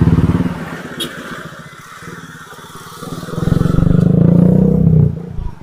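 Motorcycle engine revving up twice, loud at the start and again from about three and a half seconds in, dropping back in between.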